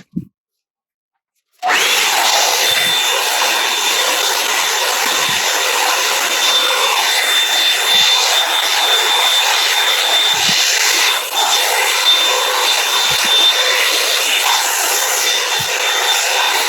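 Revlon One Step hot-air brush switching on about a second and a half in and then blowing steadily: a loud rush of air with a steady high motor whine.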